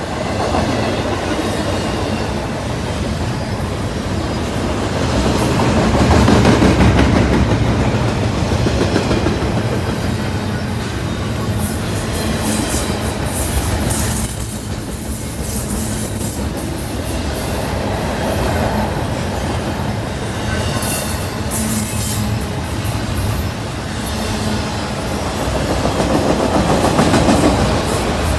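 CSX freight train cars, double-stack containers and then autoracks, rolling past close by: a steady, loud noise of steel wheels running on the rails that swells and eases as cars go by, with brief thin, high wheel squeals twice, around the middle and later on.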